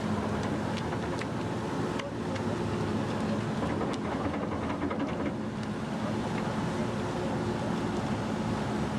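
Wood chipper running steadily, its engine hum under a constant noise of material being fed through, with a few sharp knocks along the way.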